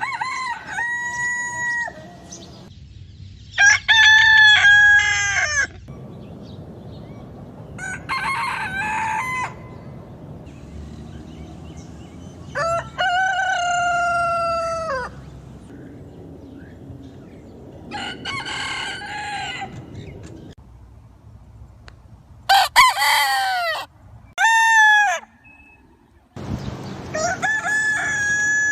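Roosters crowing, one cock-a-doodle-doo after another, about eight crows each lasting a couple of seconds with short gaps between, some ending in a falling note.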